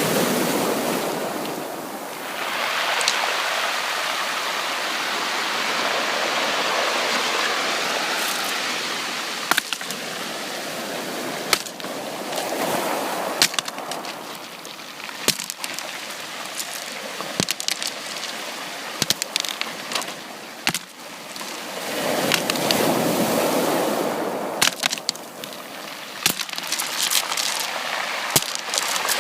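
Sea waves washing in and drawing back, the surge swelling roughly every ten seconds, with many sharp clicks and crackles scattered through the wash.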